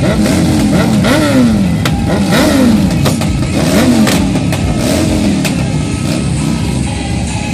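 Motorcycle engines revved over and over, each rev a quick rise and fall in pitch about once a second, the revs of more than one bike overlapping, with sharp cracks mixed in.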